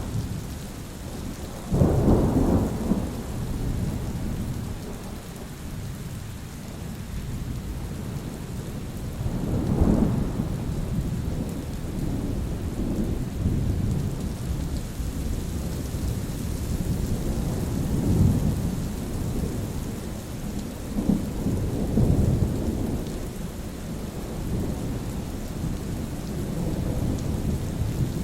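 Steady rain falling, with rolls of thunder rumbling several times, the loudest a sudden clap about two seconds in.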